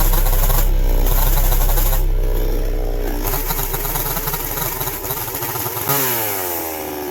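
Gas chainsaw running at high revs while milling the top of a sill log flat; about six seconds in the throttle is let off and the engine speed falls away.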